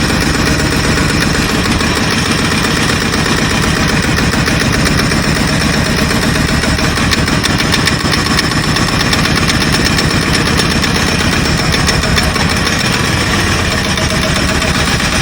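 Jackhammer breaking up the ground, hammering rapidly and without a break over a steady engine drone.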